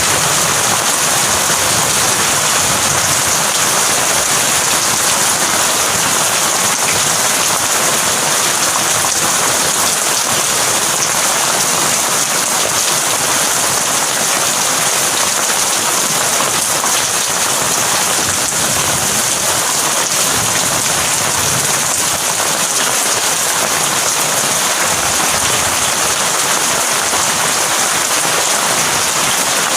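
Heavy rain falling steadily in a dense, even hiss, with no break or rumble of thunder.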